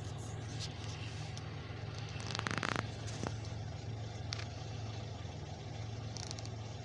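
Steady low rumble of a freight train rolling through a crossing, mixed with the car's idling engine, heard from inside the car. A brief rustling scrape about two and a half seconds in.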